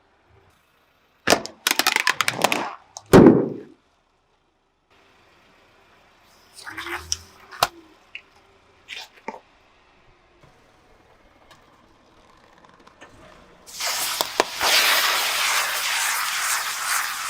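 Objects crushed under a car tyre: a run of crackling cracks and crunches, then a few scattered small snaps, and near the end a loud steady rushing noise sets in.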